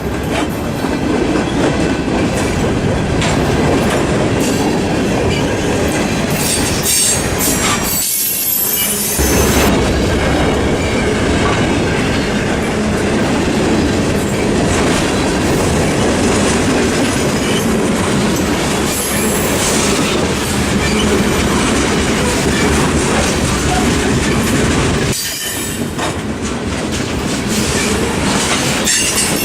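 A train's cars rolling past close by, with wheels clicking over the rail joints in a loud, steady rush of rail noise.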